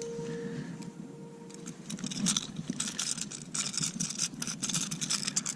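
Rapid, irregular clicking and jangling that starts about two seconds in: a hooked largemouth bass thrashing while the lure's hooks are being worked out of its mouth.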